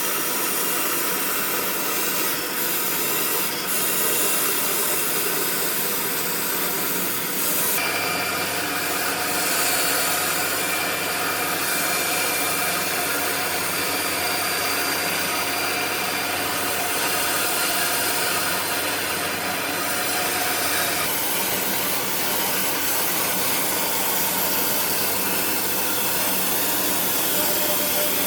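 A power tool running steadily against wood, as in sanding or cutting, with the tone shifting about 8 seconds in and again about 21 seconds in.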